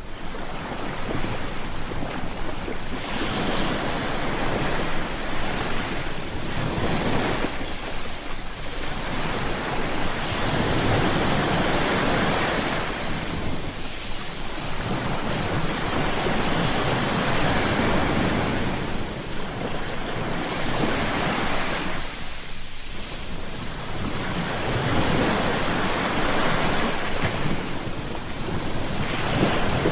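Sea waves breaking and washing up a shore: a continuous rushing that swells and eases every several seconds.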